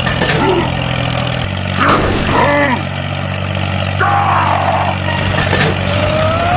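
A steady motor drone, like a small tractor running, that shifts pitch about one and a half seconds in. Several short sliding voice-like calls sound over it.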